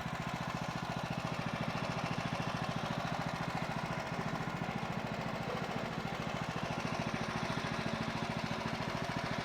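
The sawmill's 14 HP Kohler single-cylinder engine running steadily, with an even, rapid pulsing note.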